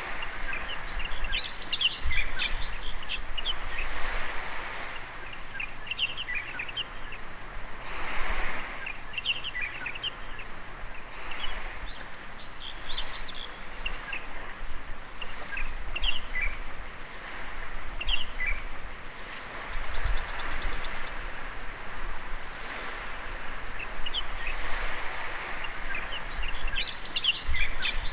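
Small waves washing on a beach, swelling and falling every few seconds, with small birds chirping and twittering over them throughout. Around two-thirds of the way in, a bird gives a quick run of high repeated notes.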